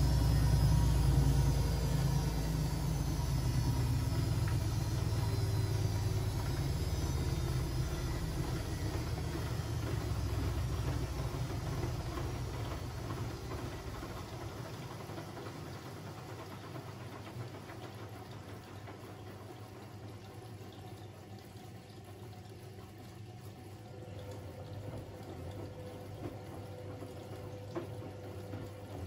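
Siemens Siwamat 6143 washing machine's drum running down from a spin. A low rumble with a falling whine fades over about fourteen seconds, leaving a quiet hum with a faint steady tone.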